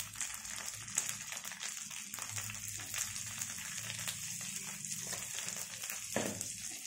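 Sliced onions and green chillies sizzling in hot oil in a karai: a steady hiss with small crackles.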